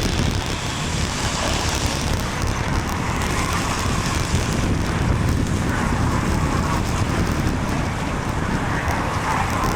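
Steady wind rush on the microphone of a bicycle-mounted or rider-worn camera while riding, mixed with road traffic noise from cars.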